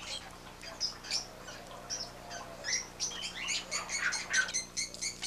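Small birds chirping, many quick high chirps overlapping, growing denser and more regular toward the end.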